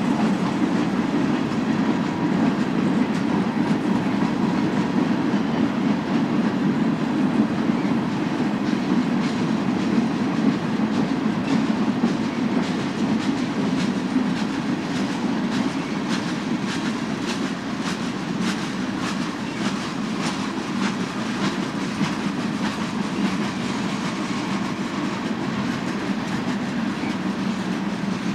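Freight train cars rolling past with a steady rumble of wheels on rail and rapid clicking of wheels over rail joints, the clicks thickest through the middle.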